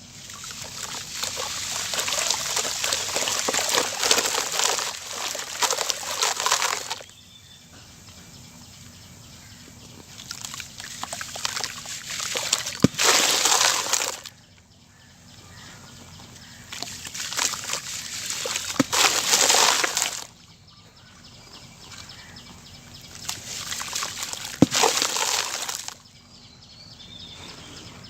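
Chunks of sand-cement being smashed and crumbling, a grainy pouring noise in four bursts of a few seconds each, with a sharp knock in three of them.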